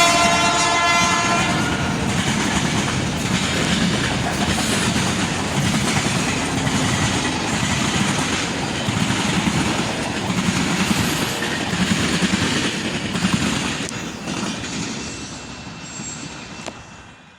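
Diesel locomotive horn sounding a chord that ends about a second in, then the train rolling past with steady wheel clatter and rumble, fading away over the last few seconds.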